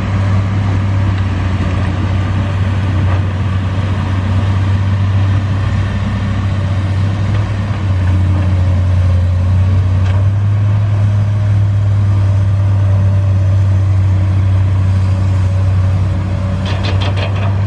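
Komatsu hydraulic excavator's diesel engine running steadily while it digs, a low drone that gets a little louder about halfway through. A quick run of sharp clicks comes near the end.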